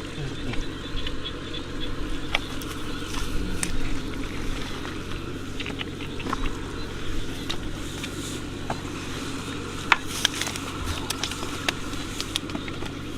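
A small engine running steadily, with scattered sharp clicks and scrapes over it.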